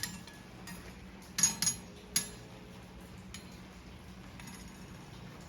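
Hand-forged steel horseshoes clinking against each other, three light ringing metallic clinks in the first half, as the two shoes are set together to check that they match as a pair.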